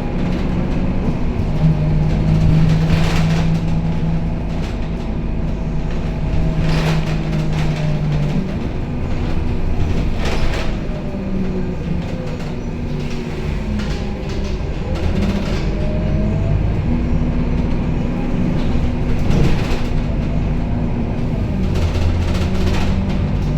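Scania K270UB city bus's five-cylinder diesel engine running under load, its note rising and falling as the bus pulls away, changes gear and eases off, with a faint gliding whine from the driveline. Brief rattles or knocks from the body come every few seconds.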